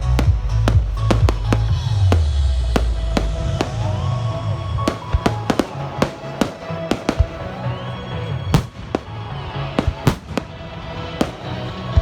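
Fireworks display: shells bursting in a run of sharp bangs and cracks, over music with a heavy bass during the first few seconds.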